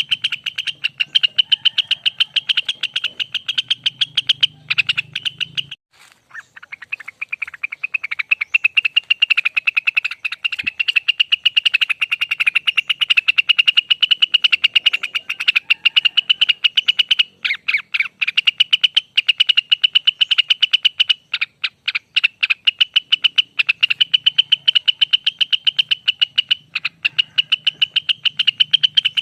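Cucak wilis (Rengganis) bird singing a long, fast rolling trill of rapidly repeated high chirps, broken by a few short pauses.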